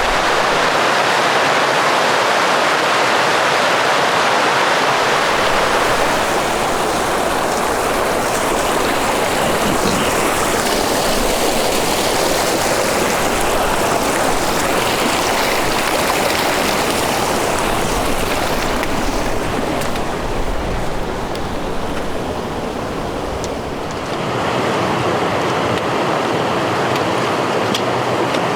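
Rushing water, a steady loud rush like a stream or waterfall, its tone changing abruptly about six seconds in and again near the end.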